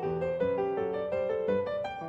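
Background piano music: a gentle melody of single notes over held low chords.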